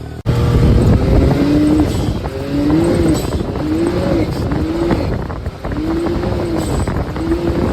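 A Can-Am Maverick X3's turbocharged engine running, its pitch rising and falling again and again in short swells. There is an abrupt cut just after the start.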